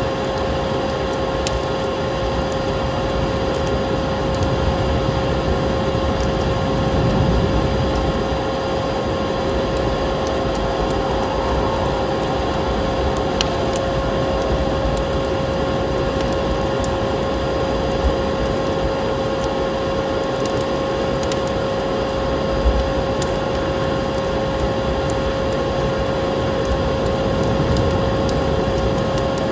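Vacuum cleaner motor running with a steady drone and a constant whine, over a wood fire crackling with scattered small pops.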